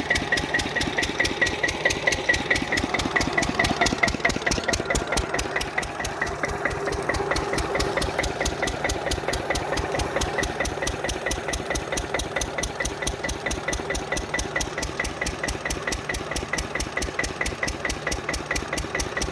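Lister 6 hp single-cylinder diesel engine on a water pump set, running steadily. Each firing stroke is heard as an even, regular knock.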